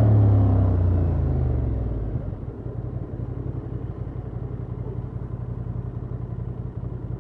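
Honda XL750 Transalp's parallel-twin engine on its stock exhaust, running louder for about the first two seconds, then dropping back to a steady idle with an even, quick pulsing beat.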